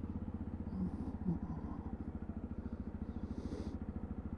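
Sinnis Terrain 125cc single-cylinder motorcycle engine idling, an even, fast low pulse at steady loudness. Two small brief sounds come just under a second in.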